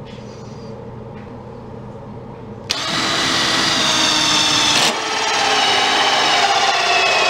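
Power tool working a wooden board for the pool table's new middle support: it runs lightly at first, then gets much louder and rougher as it bites into the wood about two and a half seconds in, with a brief let-up near five seconds before it carries on.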